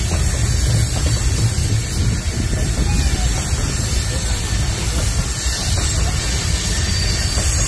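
Freight train rolling past: a steady low rumble and hiss of the cars on the rails, with a few faint, short wheel squeals.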